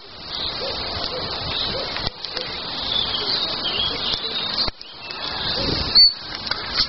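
Wild birds singing: short high chirps and whistles over a steady background hiss, with one brief loud high note about six seconds in.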